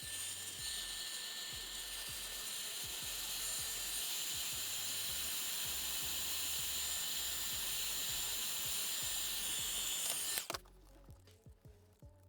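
A small electric repair tool runs steadily, with a high whine over a hiss, then cuts off suddenly about ten seconds in.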